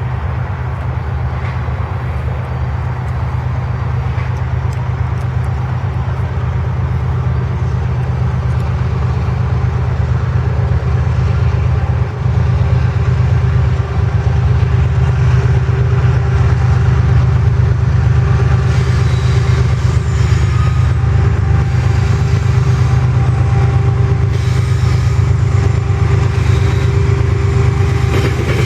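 GE ES44AH diesel-electric freight locomotives running, their V12 diesel engines making a steady low drone that slowly grows louder as the train approaches.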